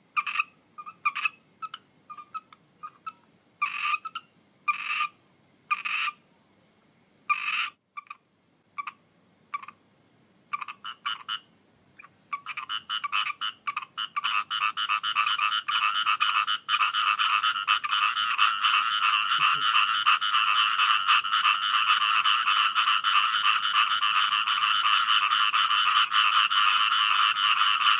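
Frogs calling: scattered single croaks at first, building about twelve seconds in into a dense, continuous chorus of rapid pulsed calls.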